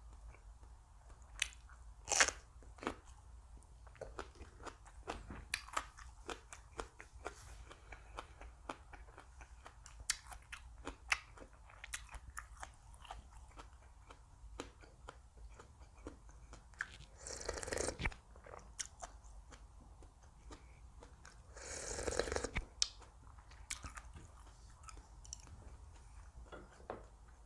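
Close-miked chewing and crunching of food, a mix of crisp raw vegetables and soft wrapped bites, with many small sharp clicks. Two louder crunching stretches of about a second each come about two-thirds of the way through.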